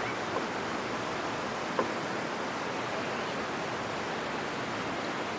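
Waterfall's rushing water: a steady, even roar of falling water, with a single faint click about two seconds in.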